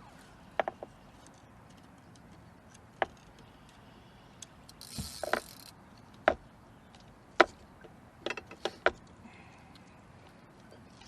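Scattered sharp knocks and clicks of fishing gear being handled in a boat, about a dozen in all, with a few close together near the end and a brief hiss about five seconds in.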